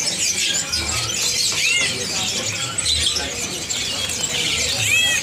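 Many small caged songbirds chirping and whistling at once, a dense overlapping chatter of short high calls.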